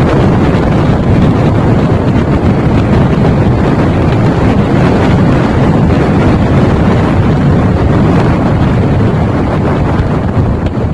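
Strong whirlwind gusts blasting the microphone: a loud, steady rush of wind noise with no let-up.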